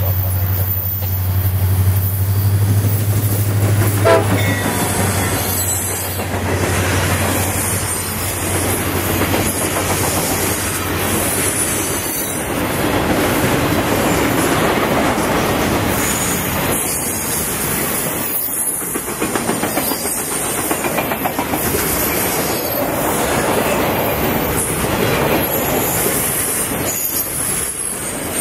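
CSX freight train rolling past close by. A diesel locomotive's low engine drone is heard for the first few seconds, then gives way to the steady rumble and irregular clatter of boxcars and loaded flatcars running over the rails.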